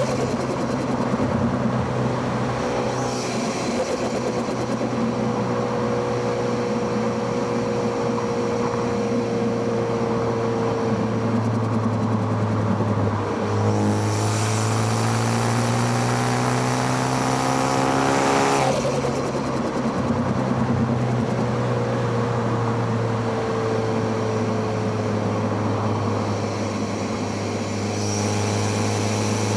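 Car engine driven on a winding road, heard through microphones at the intake and exhaust. The pitch sinks slowly for several seconds as the car slows off throttle, climbs again under acceleration about halfway through, drops sharply as the throttle is lifted, then sinks slowly again.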